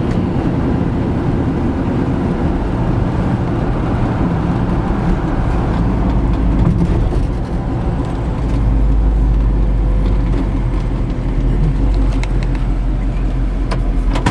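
Chevy LT1 V8 in a 1972 Chevy C10 pickup, running through Flowmaster exhaust with headers: a steady low drone that grows louder about eight and a half seconds in. A few sharp clicks come near the end.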